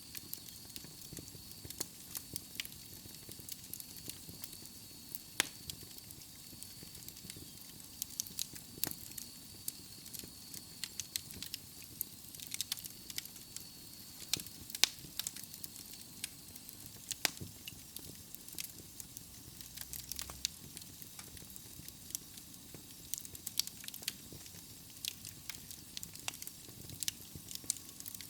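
Wood fire burning in a fireplace: burning logs crackling with irregular sharp pops and snaps over a soft steady hiss.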